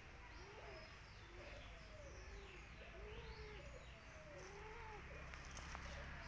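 Faint background bird calls: many short notes that rise and fall, overlapping one another, with fainter high chirps among them.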